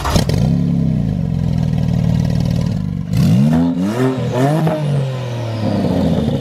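A sports car engine running, with a short crack at the very start, a rise in revs about half a second in, then several quick rev blips in the middle before it drops back to idle.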